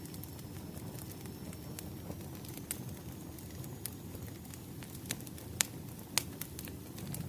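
Wood fire crackling: a steady low rumble with irregular sharp pops and snaps, the loudest two coming a little past the middle.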